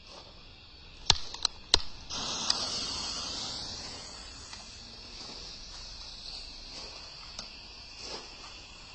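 Firework rocket going off: three sharp bangs in quick succession about a second in, followed by a long high hiss that slowly fades, with a few faint pops near the end.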